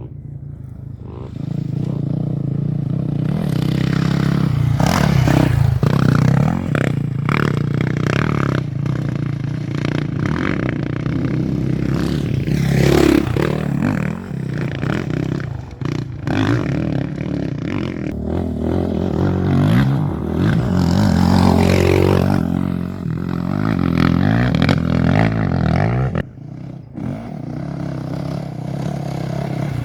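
Off-road race motorcycle engines running hard and revving as they pass, the pitch rising and falling, with much clattering noise mixed in. The sound dips briefly about 26 seconds in.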